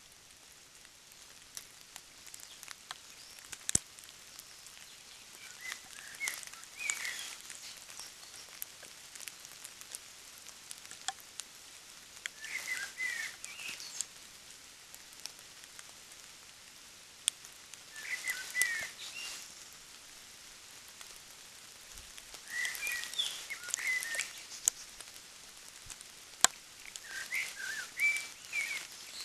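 Short chirping song phrases of a bird, each lasting a second or two and repeated every five or six seconds, with scattered faint clicks between them.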